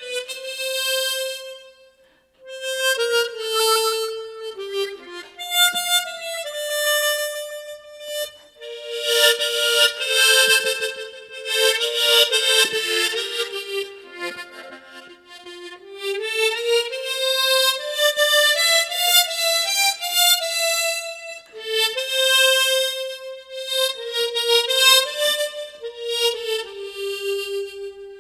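Solo tremolo harmonica playing a melody in phrases of held notes, with short breaths between phrases and fuller chords in the middle.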